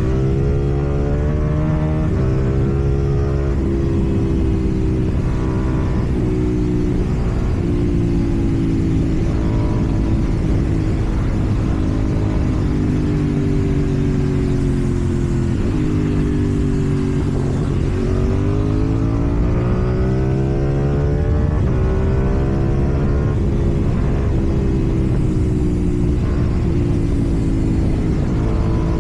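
KTM 790 Duke's parallel-twin engine through a slip-on exhaust while riding: the engine note rises and falls with throttle and gear changes, dropping low about seventeen seconds in and then climbing again.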